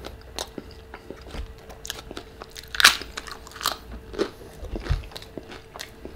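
Close-up chewing and crisp crunching of food in the mouth, typical of a tortilla chip being bitten and chewed, in a series of irregular crunches with the loudest about three seconds in.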